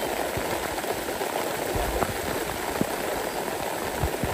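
Steady rain falling on vegetation: a continuous hiss with scattered sharp drop ticks.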